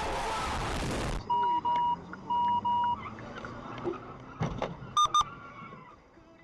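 A loud, dense din cuts off about a second in. Then come electronic beeps in quick pairs, twice, over a faint low hum, and two short, louder, higher beeps close together about five seconds in.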